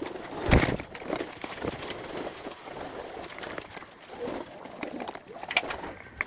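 Racing pigeons cooing while feeding, with many short sharp taps scattered through, typical of beaks pecking at grain. A loud thump comes about half a second in.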